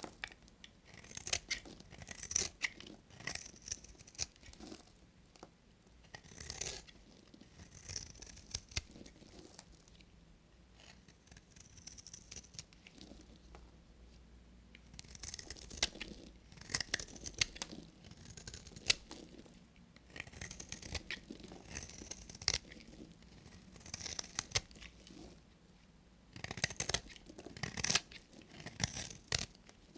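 A knife cutting through bars of soap: crisp scraping and crackling strokes in runs, with short pauses between.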